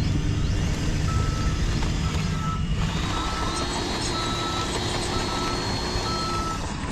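Reversing beeper of a radio-controlled truck, sounding short evenly spaced beeps about once a second over a steady low engine rumble.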